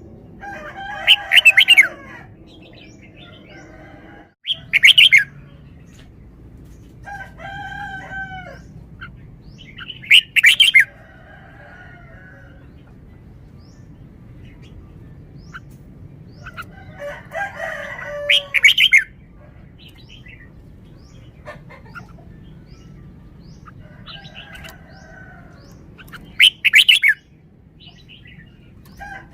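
Red-whiskered bulbul singing: short warbled phrases every few seconds, several of them ending in a very loud, sharp note, with quieter chirps between.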